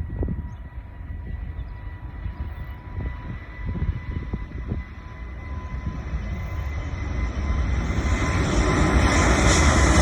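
Airbus A350-900 jet engines at takeoff power: a deep rumble with a steady whine, the roar growing louder over the last few seconds as the airliner comes nearer.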